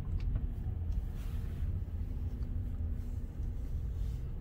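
Car engine idling, a steady low rumble heard from inside the car's cabin, with a couple of faint clicks near the start.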